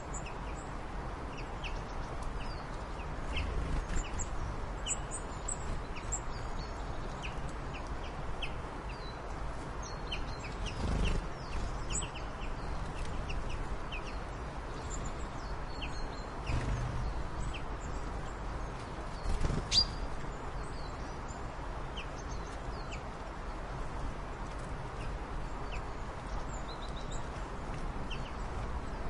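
Birds calling: many short, scattered chirps over a steady background hiss, with a few dull low thumps.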